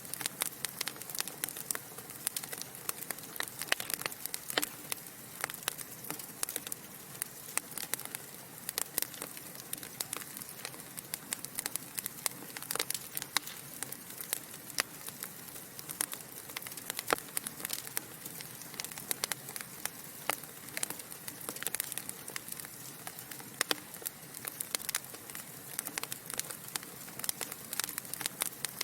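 Wood fire crackling in a fireplace: a steady soft hiss of burning logs with dense, irregular snaps and pops, several sharper ones standing out.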